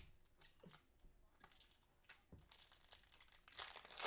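Crinkling and rustling of a cellophane-wrapped trading-card pack being handled. It starts with a sharp click and gets busier in the second half.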